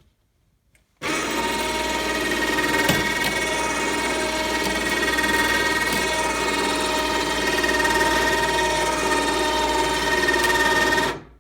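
A 12-volt Champion 2,000 lb electric winch running under load, winding the cables that lift or lower the retractable layout table: a loud, steady motor whine with gear noise. It starts about a second in and cuts off abruptly near the end.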